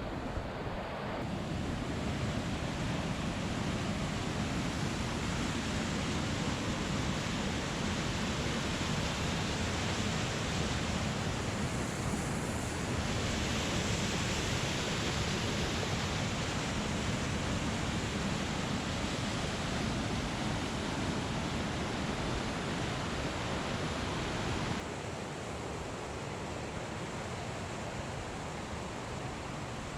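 Steady rushing of water from a creek waterfall, an even wash of noise that drops a little in level about 25 seconds in.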